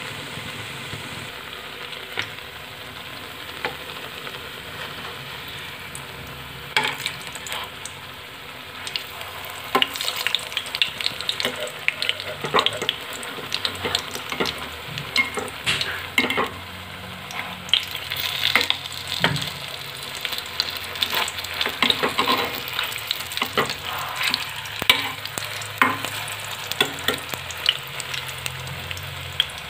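Potato and buckwheat-flour tikkis sizzling steadily as they fry in hot ghee in a kadai on low heat. From about ten seconds in, a metal spatula clinks and scrapes against the pan again and again as the patties are turned.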